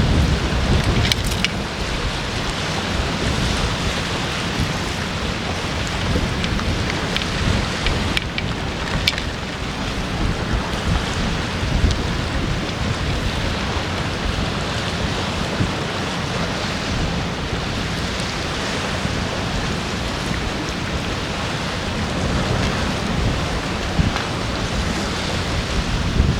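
Strong wind buffeting the microphone: a steady rushing noise with a heavy low rumble, and a few faint clicks.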